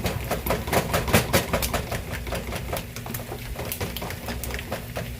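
Fork whisking pancake batter in a bowl, the tines clicking against the sides in quick, irregular strokes several times a second.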